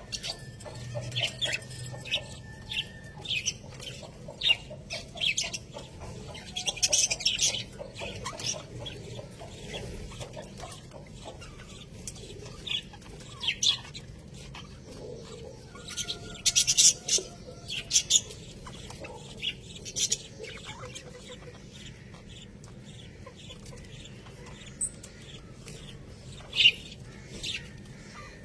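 Budgerigars chirping and chattering, short sharp calls coming irregularly in clusters over a low steady hum.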